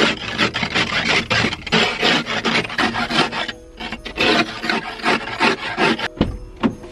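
Snow being scraped off by hand in quick rasping strokes, about three a second, with short breaks about three and a half and six seconds in.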